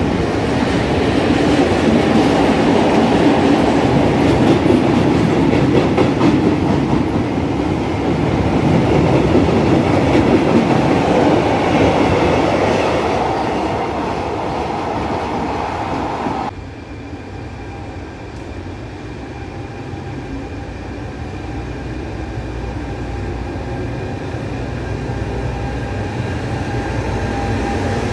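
Empty flat wagons of a freight train rolling past with a loud wheel clatter, easing off as the end of the train goes by. About sixteen seconds in the sound cuts to a quieter regional train of double-deck coaches rolling past, growing steadily louder.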